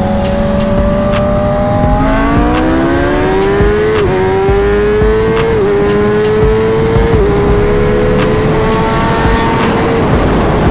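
Superbike inline-four engine accelerating hard, its pitch climbing and dropping sharply at three upshifts about 4, 5½ and 7 seconds in, then holding steady and easing off near the end.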